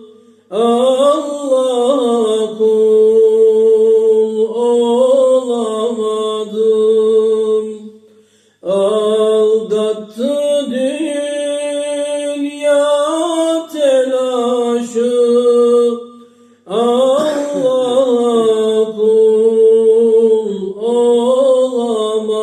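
A voice singing a Turkish ilahi without instruments. It holds long drawn-out notes that bend slowly, in three phrases with short breaks for breath between them.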